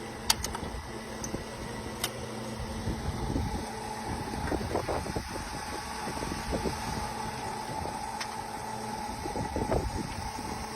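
Drilling rig machinery running with a steady engine drone, with a few sharp metallic clinks, two of them near the start.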